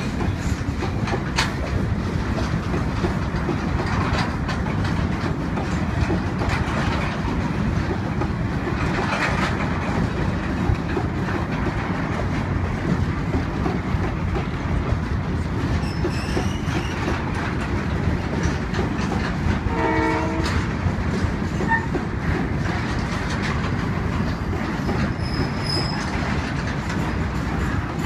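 Freight train passing close by: diesel locomotives followed by empty open steel wagons, giving a steady rumble of wheels on rail with scattered clicks from the rail joints. A short pitched tone sounds once about twenty seconds in.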